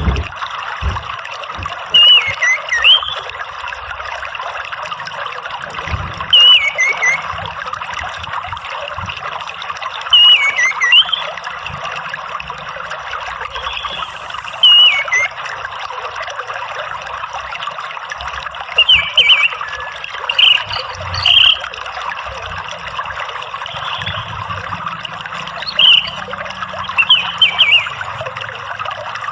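Orange-headed thrush calling in short, loud, falling whistled phrases every few seconds over a steady trickle of running water.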